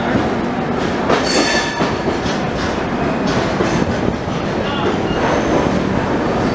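Passenger train running on the track, a steady rolling rumble with wheels clicking over rail joints, and a brief high wheel squeal about a second in.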